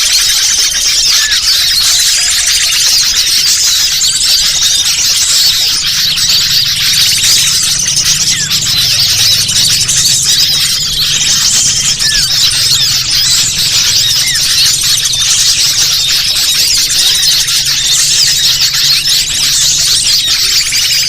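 Bird-lure recording: a loud, dense chatter of many overlapping high-pitched bird chirps and squeaks, unbroken throughout, played to attract wild birds.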